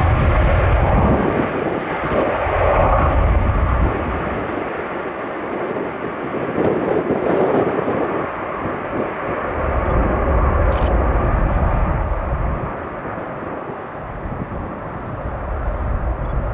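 Aircraft engine noise from an airliner at the airport, a steady rushing that swells and eases, while strong wind gusts buffet the microphone with heavy rumbles that come and go.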